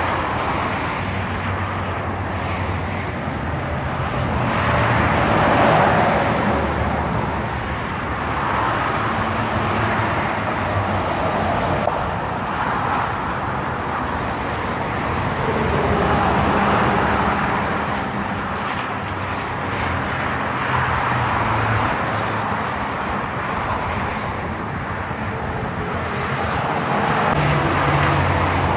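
Steady highway traffic with heavy trucks passing one after another. The diesel engines drone low, and the noise swells as each vehicle goes by, about four times.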